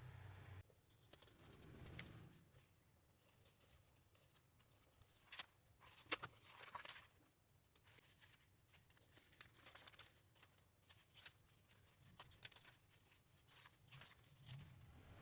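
Faint rustling of paper and light taps and clicks of stationery being handled, in scattered short bursts with a busier stretch about six seconds in and another near the end.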